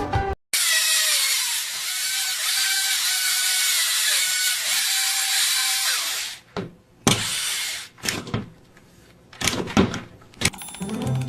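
A power tool running with a high hissing whir for about six seconds, then scattered clicks and knocks.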